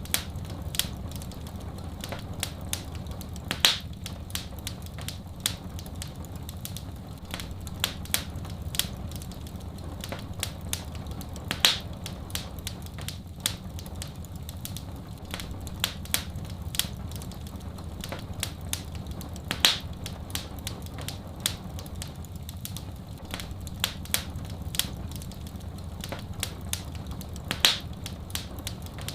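Wood fire crackling and popping, with many small crackles over a steady low rumble and a louder pop about every eight seconds.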